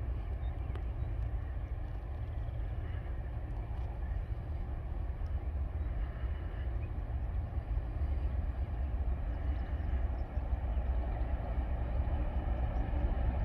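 TasRail diesel locomotives working a freight train uphill: a steady low engine drone with a few faint held tones, growing a little louder near the end.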